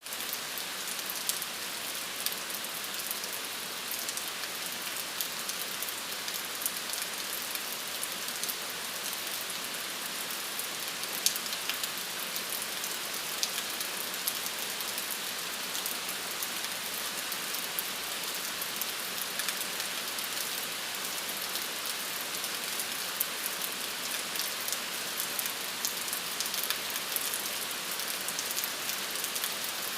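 Steady rain falling, a dense hiss with many small, sharp drop ticks scattered through it.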